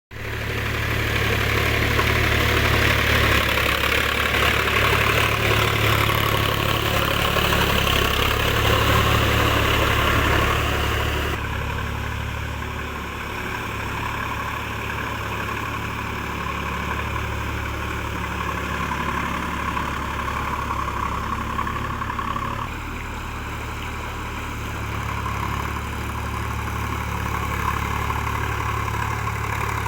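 Sonalika DL-47 RX tractor's diesel engine running steadily. It is louder, with more hiss, for the first eleven seconds, then drops abruptly in level, with another sudden change a little after twenty seconds.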